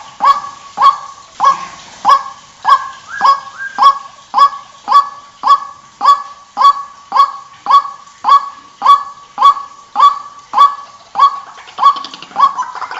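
White-breasted waterhen giving its repeated 'kwak' call, a steady series of short, sharp-edged pitched notes, about two a second. The last few notes are fainter.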